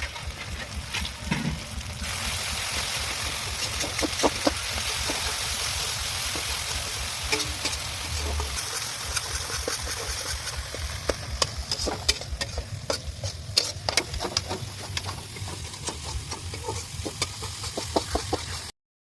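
Chopped onion and tomato with turmeric sizzling in hot oil in a kadai, stirred with a spatula that scrapes and taps against the pan. The sizzle cuts off suddenly near the end.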